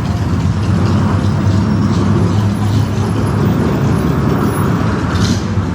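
Steady rumble of a car driving through city traffic, engine and road noise, with a short hiss about five seconds in.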